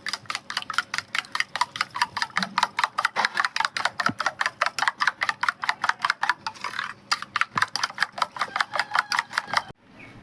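Eggs being beaten by hand in a bowl: a utensil clicks against the bowl in a fast, even rhythm of about five or six strokes a second, stopping suddenly near the end.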